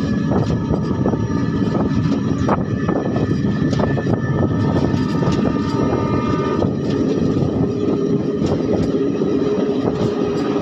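Express passenger train pulling out of a station, heard from aboard: a steady rumble of wheels on rails with frequent clicks and clacks over rail joints and points, and a thin high whine over it.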